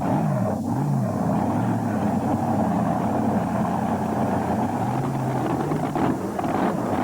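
Supercharged engine of a mini modified pulling tractor running hard under load during a pull. Its pitch swings up and down twice in the first second as the throttle is worked, then holds at a fairly steady high-revving drone.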